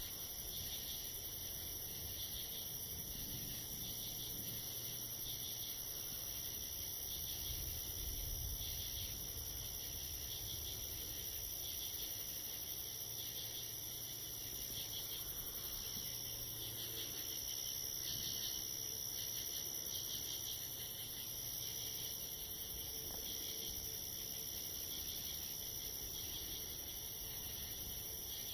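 Steady chorus of night insects, crickets, chirping: a continuous high-pitched trill with a pulsing chirp beneath it, at an even level throughout.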